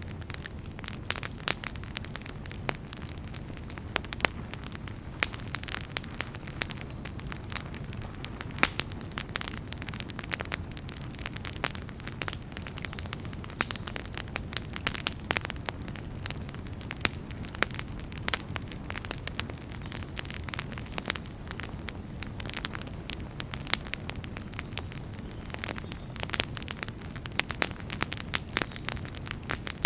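Wood fire in a fireplace burning with a steady low rumble and many irregular sharp crackles and pops.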